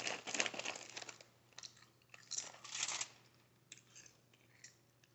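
Close-miked ASMR eating: a person chewing and crunching food from a seafood boil, in two louder spells a couple of seconds apart, then a few soft wet mouth clicks.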